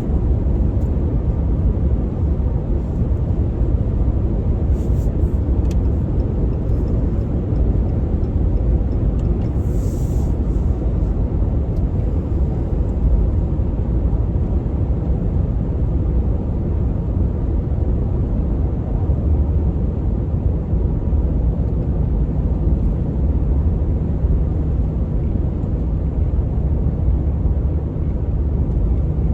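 Steady low road and engine rumble heard inside a truck's cab while it drives along a highway.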